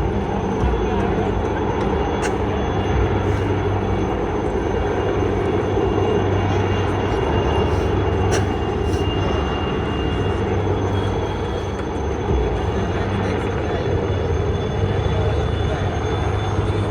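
Steady engine noise of an aircraft flying over at an air show, with faint crowd voices underneath.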